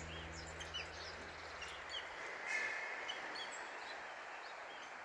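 Small birds chirping and calling in short, scattered notes over a soft outdoor hiss. The last low sustained notes of background music fade out about two seconds in.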